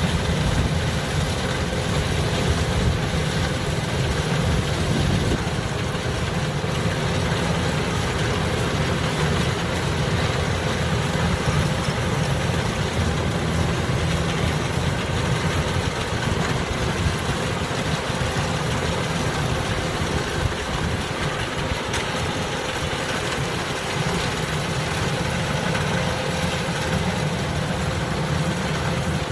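Kubota DC-105X combine harvester's diesel engine running at a steady speed, with a continuous drone and no change in pitch.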